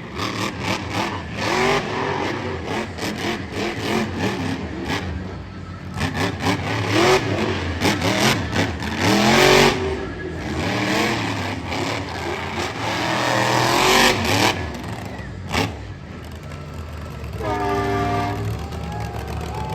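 Monster truck engine revving hard in repeated rises and falls, with sharp knocks scattered among them.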